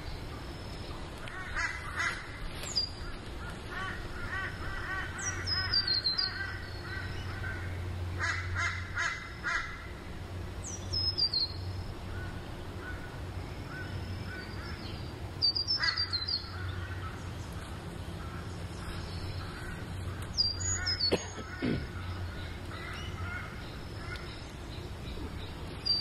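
Wild birds calling: short high whistles that fall in pitch, recurring every few seconds, and bursts of rapid chattering calls, over a steady low hum.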